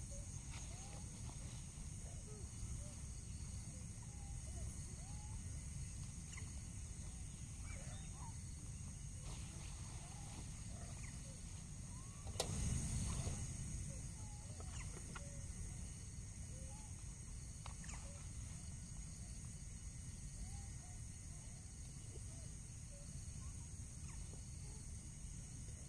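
Forest ambience: insects droning steadily in a high continuous band, with scattered short chirps and a low steady rumble underneath. A single sharp click or knock comes about halfway through, followed by a couple of seconds of louder low noise.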